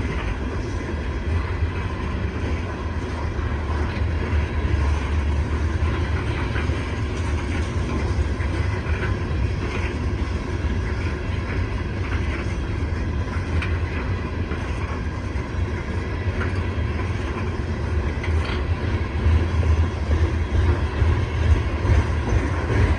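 Coal train cars rolling past: a steady, heavy low rumble of steel wheels on rail with faint clicking.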